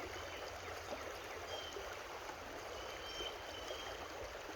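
A creek running steadily, an even rush of flowing water, with a few faint, short high chirps over it.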